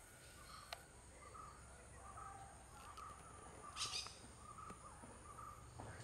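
Faint bird calls: short chirps repeating about twice a second, and one louder harsh call from a common hill myna just before four seconds in.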